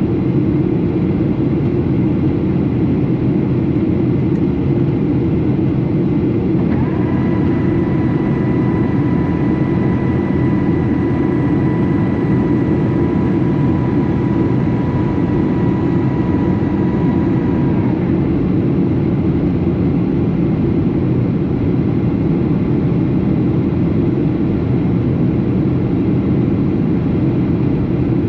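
Steady engine and airflow rumble of a Boeing 737 in flight. A steady whine comes in about seven seconds in and stops about eleven seconds later.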